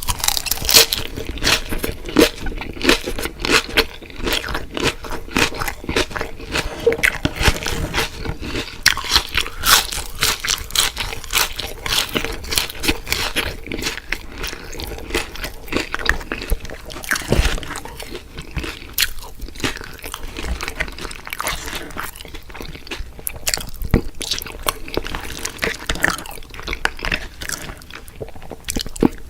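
Close-miked eating of fried food: crunchy bites into crispy breading and wet chewing, in quick irregular crackles throughout.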